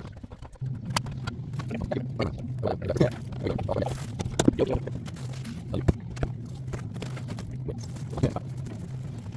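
Irregular knocks and clatter of metal roofing work, with a steady low hum underneath.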